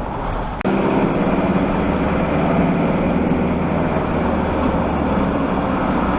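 Van's engine and road noise heard from inside the cab while driving, a steady drone that steps up abruptly in level under a second in.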